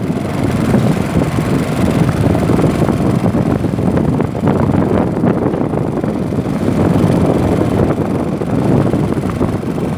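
Strong wind buffeting the microphone over a steady low rumble from a canoe moving through choppy river water.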